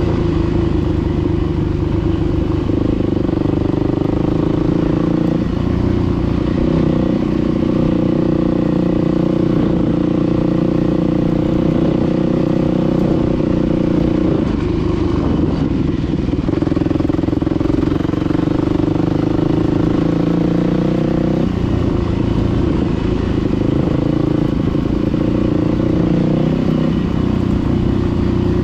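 Dirt bike engine running under throttle while being ridden. Its pitch steps up and down every few seconds with throttle and gear changes.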